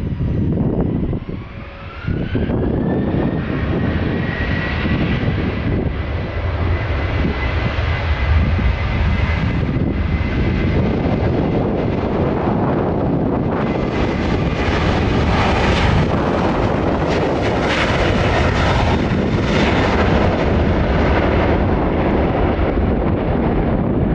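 Boeing 737-800 jet airliner's CFM56-7B turbofan engines spooling up to takeoff thrust. A whine rises in pitch over the first few seconds and then holds steady over a deep rumble. Past the middle the jet noise grows fuller and louder.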